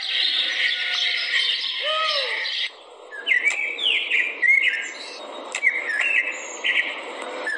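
Birds chirping: a dense chorus of high chirps for the first couple of seconds, then a bird repeating a short swooping call about twice a second.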